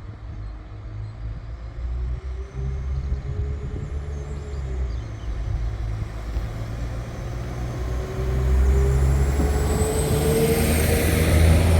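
Northern Class 195 diesel multiple unit approaching: a low engine hum that grows louder over the last few seconds, with a high whine rising in pitch.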